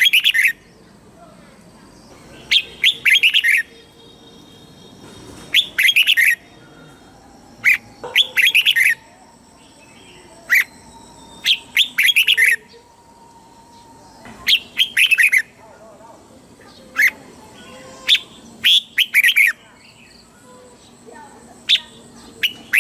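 Red-whiskered bulbul singing: short bright phrases of several quick notes, repeated every two to three seconds.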